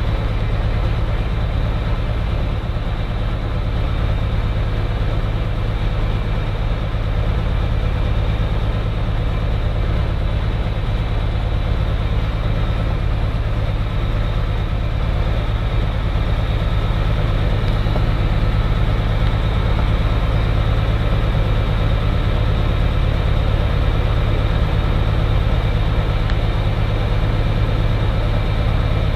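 Cirrus SR20's piston engine and propeller running steadily, a constant low drone that does not change in pitch or level.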